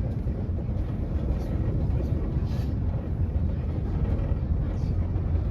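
Train ride rolling along the track, heard from on board: a steady low rumble of the moving railcar.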